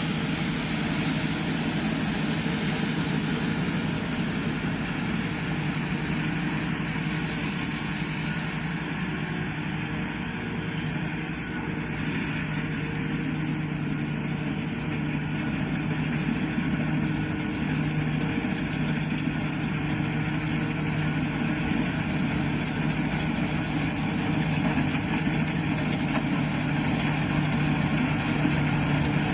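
Combine harvester running steadily, its engine and machinery making a continuous hum.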